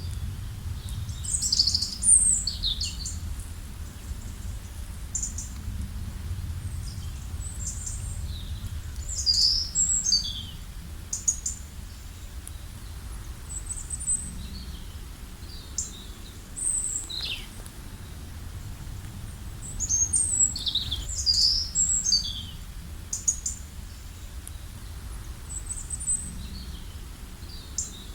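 Wild songbirds chirping and calling, short high notes and quick falling whistles, in bunches several seconds apart, over a low steady rumble.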